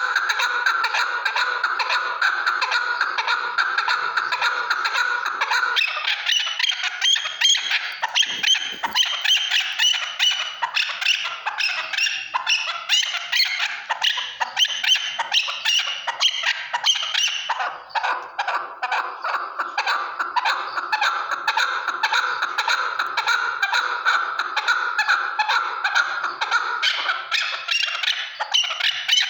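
Chukar partridges calling: a dense, unbroken run of rapid, repeated chattering calls, higher and brighter from about six to eighteen seconds in.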